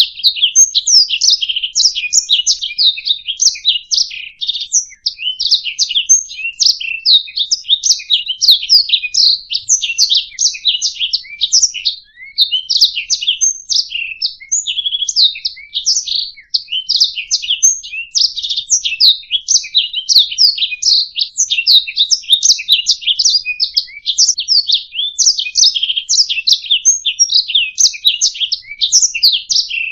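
Domestic canary singing a long, unbroken run of rapid chirps, trills and warbles, loud and high-pitched, with only a brief pause about twelve seconds in.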